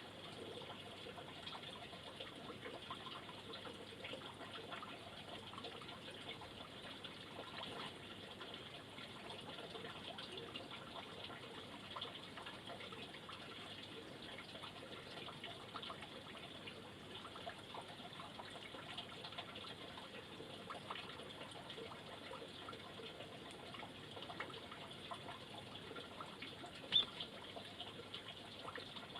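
Faint, steady trickling water with small scattered ticks, and one short, sharp high-pitched sound about three seconds before the end.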